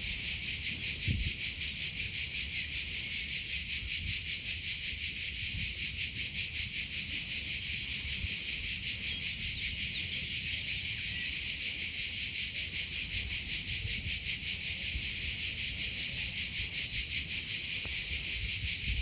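Crickets chirping continuously in a high, fast, even pulsing trill, with faint low rumble underneath.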